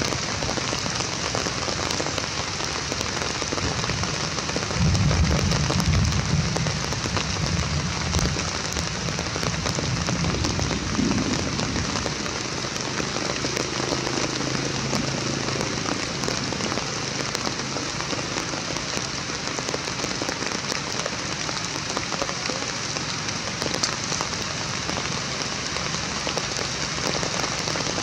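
Steady rain falling, a dense even patter of drops, with a low rumble lasting about three seconds some five seconds in.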